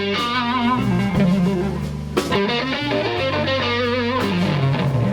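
Blues band of electric guitar, bass guitar and drums playing, with the electric guitar taking a lead fill between vocal lines: two phrases of held notes with wide vibrato and bends over the bass and drums.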